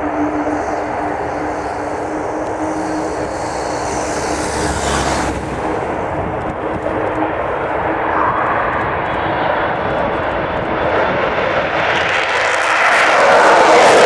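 Avro Vulcan bomber's four Rolls-Royce Olympus turbojets at takeoff power: a dense, so-loud jet rush. A steady low tone runs under it for the first half, and the noise swells louder about twelve seconds in.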